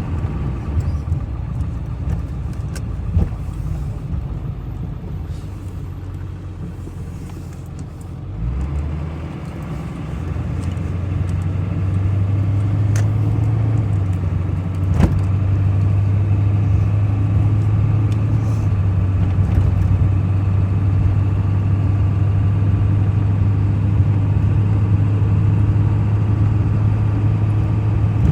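Pickup truck heard from inside the cab: engine and road rumble easing off about eight seconds in, then building again as it pulls away and settling into a steady low drone. A few sharp knocks sound over it.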